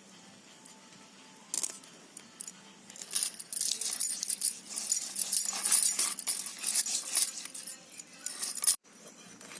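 Busy, irregular clinking and clattering of small hard objects, starting about a second and a half in and growing dense after about three seconds, then cutting off abruptly near the end.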